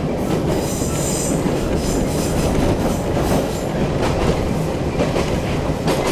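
Toyama Chihō Railway electric train running, heard from inside the carriage: a steady rumble of wheels on rail with a few clicks from rail joints, and a brief high wheel squeal about a second in.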